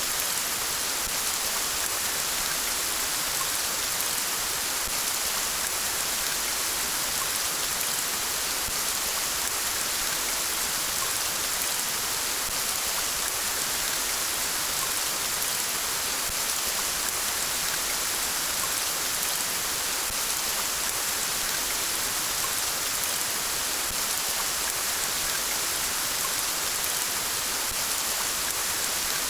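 Steady rain falling, an even, unbroken hiss with no change throughout.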